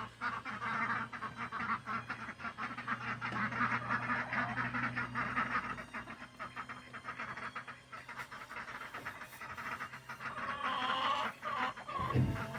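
Ducks at feed, calling, with a rapid patter of small clicks throughout and a few drawn-out calls near the end; a steady low hum runs underneath.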